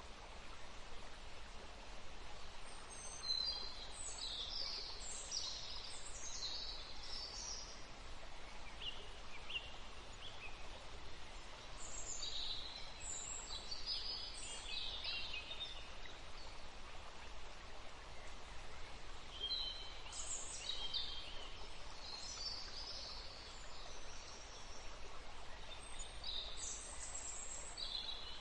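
Forest stream running with a steady rushing, while songbirds sing in short bouts of high chirps and trills several times over it.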